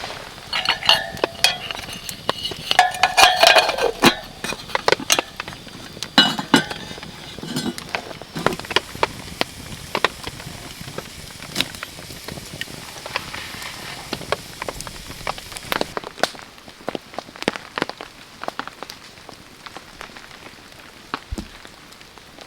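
Metal camp cookware and utensils clinking and rattling for the first few seconds, over a steady patter of raindrops and a campfire crackle, with a soft hiss for several seconds in the middle.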